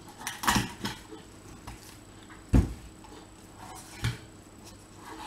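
Knife cutting through a whole raw chicken on a chopping board: a few scattered knocks and thumps, the loudest a deep thump about two and a half seconds in.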